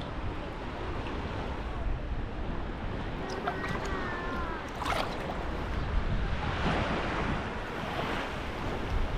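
Sea waves washing onto a beach, with wind buffeting the microphone. A faint, brief gliding call is heard around three to four seconds in, and a sharp click about five seconds in.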